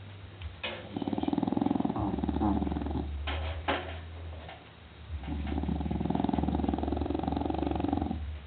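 English Bulldog snoring in its sleep: two long snores, the first starting about a second in and the second about halfway through.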